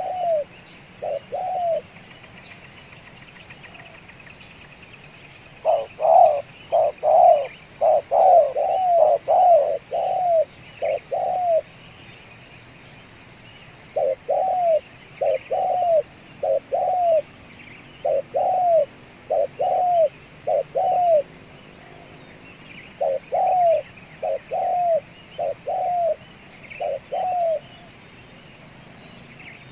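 Spotted dove (tekukur) cooing in repeated phrases of short, arched coo notes. There are pauses between the phrases, and a denser run of notes comes about six to eleven seconds in. A steady high insect drone runs underneath.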